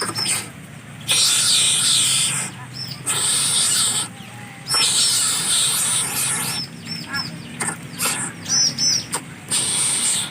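Bird calls: short high chirps that curve down in pitch, some in quick runs of two or three, alternating with loud harsh rasping bursts lasting a second or two.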